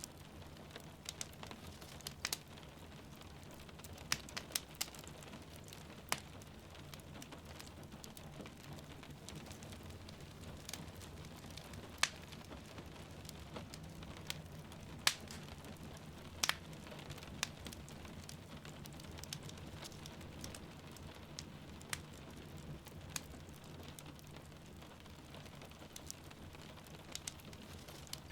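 Wood fire crackling in a fireplace, with irregular sharp pops, over a steady hiss of rain.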